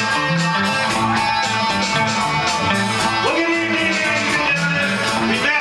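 A band playing rock music with guitars over a steady, repeating bass pattern. Sliding notes rise about three seconds in and again near the end.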